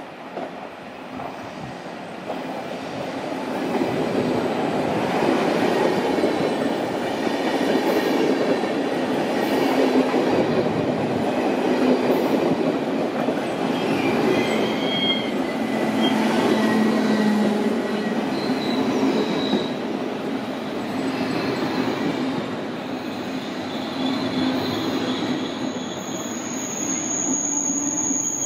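SBB double-deck intercity train pulled into the platform by a rear-pushing Re 460 locomotive, its coaches rolling past close by and slowing. The rumble of the wheels grows louder over the first few seconds, with squeals of steel wheel on rail in the middle and a steady high squeal near the end.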